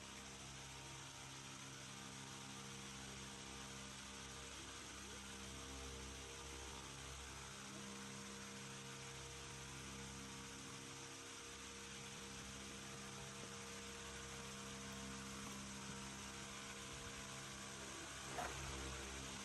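Faint steady hum made of a few constant low tones over a light hiss, with one small knock near the end.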